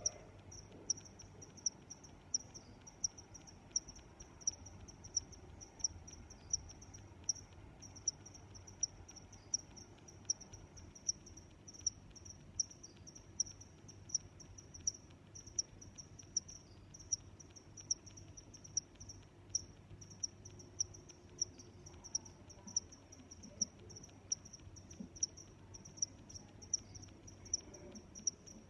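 Crickets chirping: a high-pitched chirp repeated evenly about one and a half times a second, with a fainter, higher insect trill behind it.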